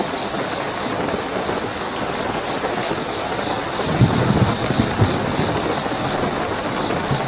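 Steady heavy rainfall with night crickets trilling in a continuous high tone. A brief low rumble comes about four seconds in.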